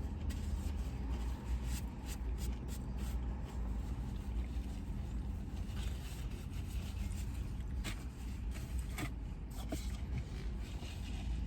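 Steady low rumble of a parked car's idling engine, heard from inside the cabin, with scattered faint clicks and rustles.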